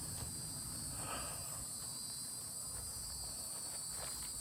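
Steady, high-pitched chorus of insects such as crickets, with a few faint soft rustles underneath.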